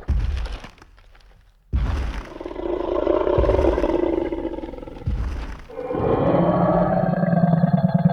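Tyrannosaurus rex roar sound effect: two long, deep roars, the second starting about six seconds in, with heavy stomping thuds at the start and between them.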